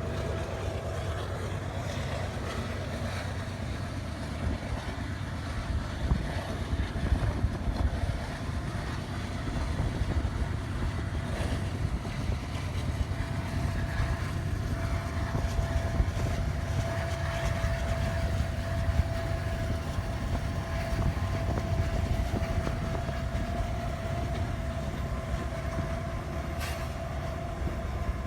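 Union Pacific train rolling past, a steady low rumble of wheels on rail with a thin steady whine above it that grows stronger about halfway through, and one sharp click near the end.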